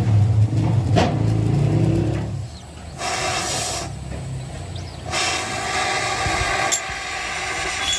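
Machinery running in a workshop: a low, steady motor hum that stops about two and a half seconds in. It is followed by two bursts of hissing noise, the second one longer, and a few sharp clicks near the end.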